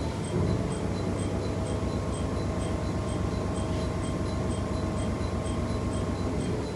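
AIZU Mount Express diesel railcar running, heard from on board: a steady low engine and running hum, with a brief louder bump about half a second in.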